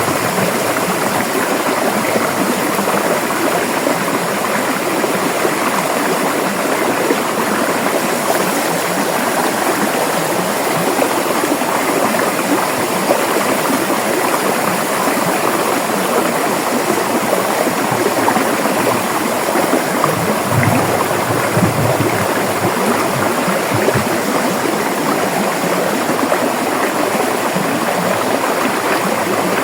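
River water running steadily over rocks, a constant rushing and gurgling, with a few brief deeper gurgles partway through.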